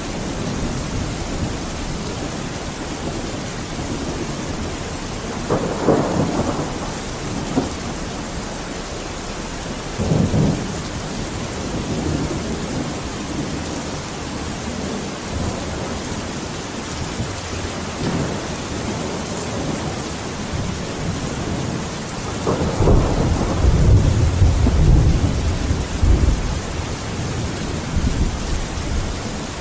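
Steady rain with rolling thunder: brief rumbles about six and ten seconds in, and a longer, louder low rumble toward the end.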